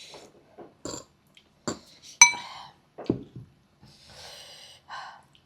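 Eating and table noises: cutlery clicking and knocking on dishes, with one sharp ringing clink on a bowl about two seconds in, then a duller knock and a soft breathy slurp near the end.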